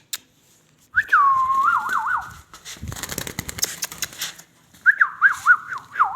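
Ringneck parrot whistling two short phrases, each opening with a falling note and breaking into quick up-and-down warbles, with scratchy rustling between them.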